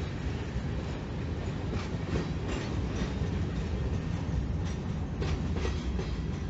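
Freight train cars rolling past: a steady low rumble of wheels on rail, with several sharp clacks as the wheels pass over rail joints.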